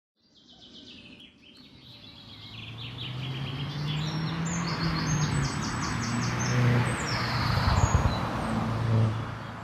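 A car's engine running and growing steadily louder, loudest near the end, with birds chirping throughout.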